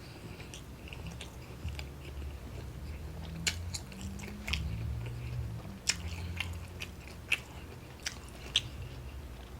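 A person biting into and chewing a McDonald's Quarter Pounder with cheese, with scattered sharp mouth clicks through the chewing.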